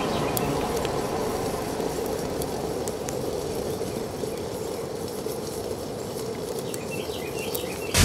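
Open wood campfire burning under a cooking pot: a steady rushing sound of the flames with scattered sharp crackles.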